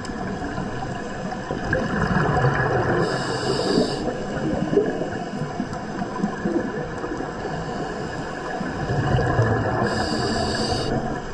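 Scuba diver's regulator breathing, heard underwater: a steady rumbling wash of water noise that swells twice, about seven seconds apart, each time with a short hiss.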